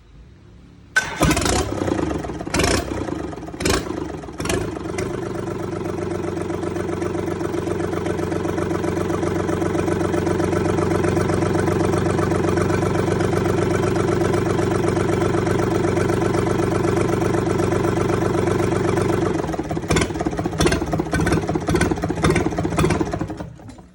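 Three-cylinder 3D84-2 diesel engine starting about a second in, running unevenly with sharp knocks for a few seconds, then settling into steady running. Near the end it turns uneven again and stops.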